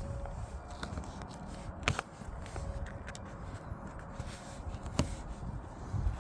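Scattered handling and scraping noises with a few sharp clicks, the clearest about two seconds and five seconds in, over a low steady rumble.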